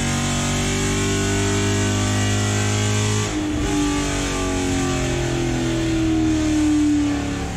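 Camaro's 6.2-litre V8 with long-tube headers running on the chassis dyno, held at a steady engine speed, then dropping in pitch about three seconds in and slowly winding down.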